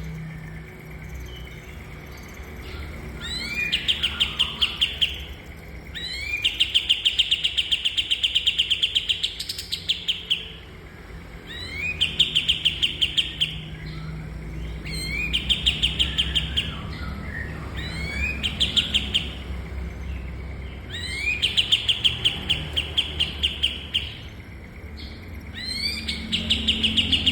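Kapas tembak songbird singing a repeated song: each phrase opens with a quick rising note and runs into a fast, even trill lasting one to three seconds, repeated about every three to five seconds over a steady low hum.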